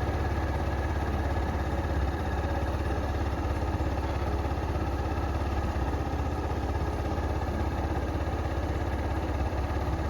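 XPro Capri 150 scooter's GY6 150cc single-cylinder four-stroke engine idling steadily while it warms up from a cold start, with the enricher still working.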